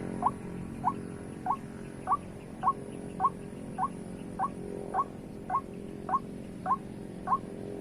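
White-breasted waterhen calling: the same short rising note, repeated steadily about every 0.6 s over a steady low hum.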